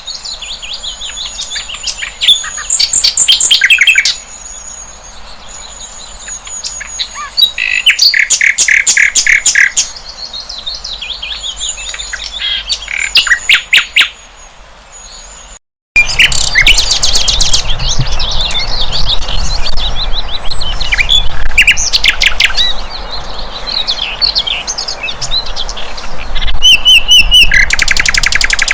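Sikatan londo flycatcher singing: phrases of rapid, high chattering trills and chirps, repeated again and again, with a brief dropout about halfway through.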